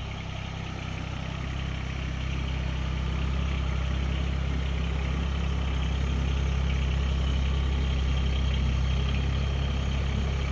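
Tractor engine, warmed up, idling steadily, growing a little louder over the first few seconds.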